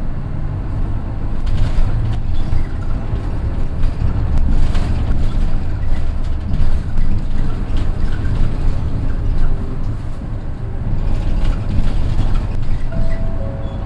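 Mitsubishi Fuso Aero Midi bus heard from inside, its naturally aspirated 6M61 inline-six diesel running under way, with a deep low drone that swells and eases and occasional short rattles or clicks.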